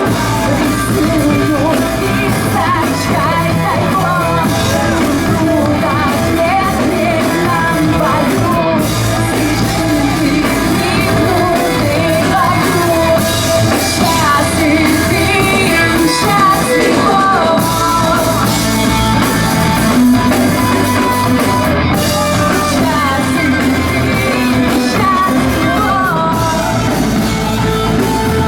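A live rock band playing a song with a singer's voice over the instruments, loud and continuous.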